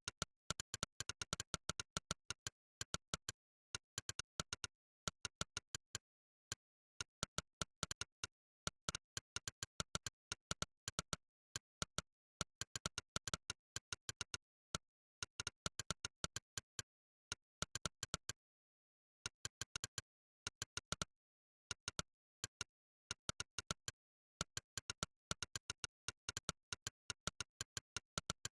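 Monkeytype's synthetic 'click' keystroke sound, one short click per key pressed, coming in fast irregular runs like typing, broken by a few brief pauses.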